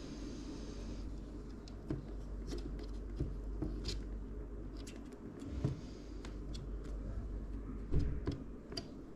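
Light clicks, taps and rustling of hands handling computer parts and packaging, over a steady low hum. The loudest tap comes near the end.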